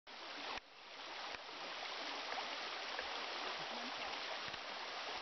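Brook water running: a steady rush of stream noise, broken by abrupt cuts in the first second and a half.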